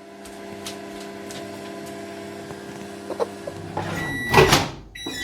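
Microwave oven running, a steady low hum from its magnetron and turntable motor. About four seconds in, a louder short clatter breaks in.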